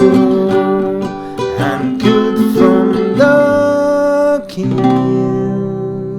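Acoustic guitar song ending, with held sung notes over the guitar; about four and a half seconds in a final chord is struck and left to ring, slowly fading.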